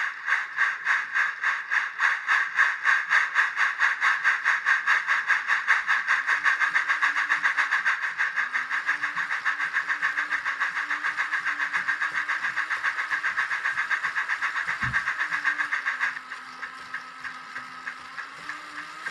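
Sound card in a Darstaed Jinty model locomotive playing rhythmic steam-engine chuffs, with a faint motor hum under them. The chuffing falls to a quieter level about three-quarters of the way through.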